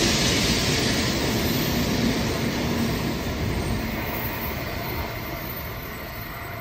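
Taiwan High Speed Rail train running through the station without stopping, its steady rush of wheel and air noise fading gradually as it moves away.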